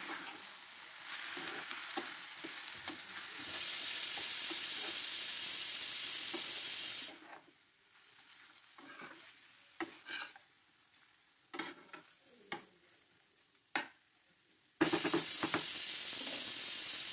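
Raw chicken pieces frying in oil with onion and spices, sizzling while a spatula stirs them in the pan. The sizzle is loud from about three and a half to seven seconds and again near the end. In between it drops low, with scattered clicks of the spatula against the pan.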